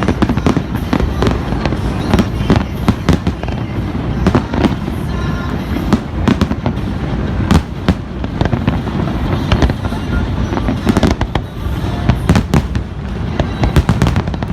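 Aerial fireworks display bursting in rapid succession: many sharp bangs over a continuous low rumble.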